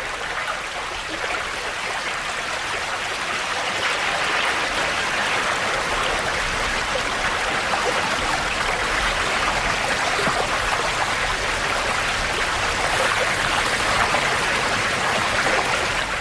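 Rushing river water, a steady rush that swells a little over the first few seconds and then holds.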